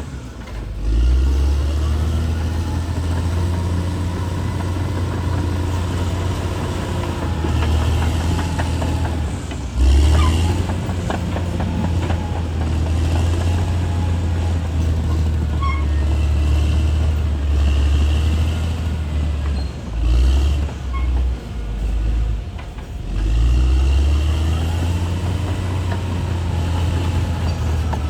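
Diesel engine of a Caterpillar D6R XL crawler bulldozer running steadily under load, easing off and picking up again several times, with short higher-pitched squeals coming and going.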